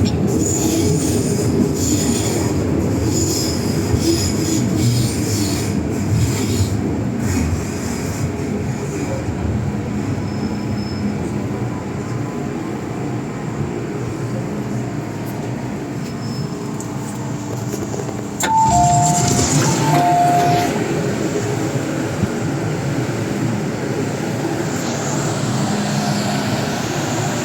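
Interior noise of an MTR M-Train running on the Island Line: a steady rumble of wheels on rail. About two-thirds of the way through there is a sharp click, and the sound gets louder for a couple of seconds while a short two-note chime plays.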